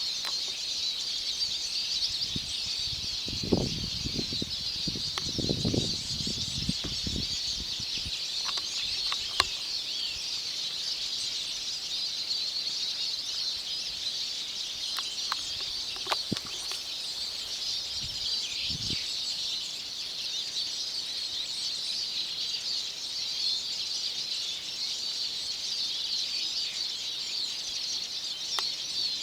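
A flock of birds chattering together in one dense, continuous high-pitched chorus, with some low rumbling a few seconds in.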